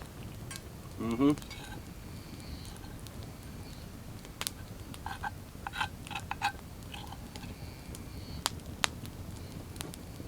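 Metal utensils clicking and tapping against camp dishes while eating. The taps are scattered, several of them briefly ringing, with two sharp clicks near the end. About a second in comes one short vocal sound, rising in pitch.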